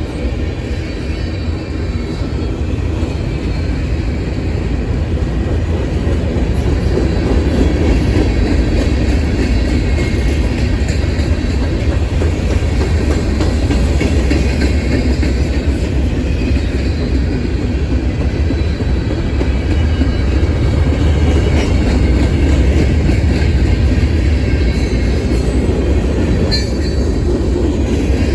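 A train rolling past with the steady, heavy rumble of its cars on the track and scattered clicks of wheels over the rails.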